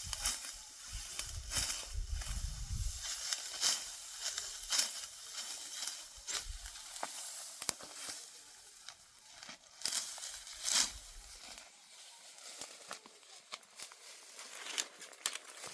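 Dry crackling and rustling with many irregular sharp clicks, like dry wheat stalks being handled or cut. A low rumble underlies the first few seconds.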